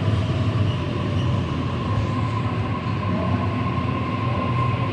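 Sydney Trains Waratah (A set) double-deck electric train moving slowly along a curved platform: a steady rolling rumble, with a thin high wheel squeal on the curve that grows after about a second.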